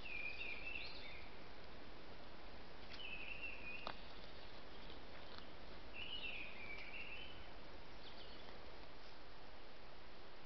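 Small bird singing short warbling phrases, one about every three seconds, over the steady hiss of a trail camera's microphone. A single sharp click comes about four seconds in.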